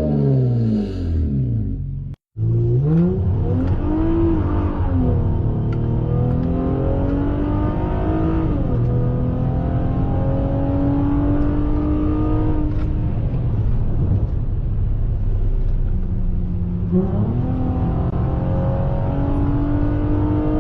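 Honda Accord engine with a J-pipe and the muffler deleted, running loud through the straight exhaust. It revs up and down, then climbs slowly in pitch as it accelerates, twice. The sound cuts out briefly about two seconds in.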